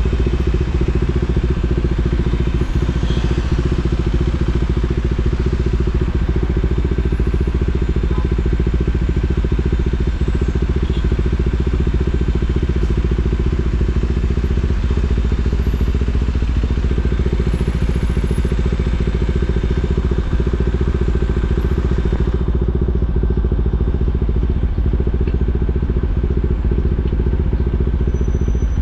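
KTM Duke 390's single-cylinder engine running at a steady, unchanging pitch with no revving, as at idle.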